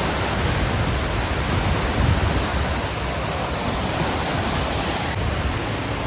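Steady rushing of water falling down the water park's man-made volcano, an even roar with no breaks.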